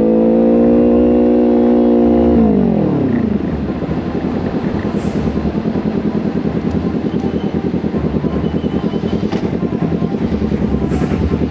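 Motorcycle engine held at steady revs, then the revs drop over about a second as it slows. It settles into a low, evenly pulsing rumble.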